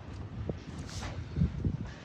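Wind buffeting a phone's microphone in a storm, a low, uneven rumble.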